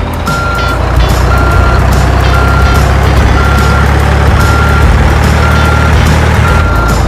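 Truck reversing alarm beeping about once a second, seven beeps in all, over a steady low engine-like drone: the backing-up sound of a remote-control miniature log truck.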